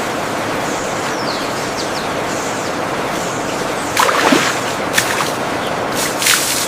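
Steady rushing of water, with a few short high chirps of birds over it about a second in and several sharper brief sounds later on.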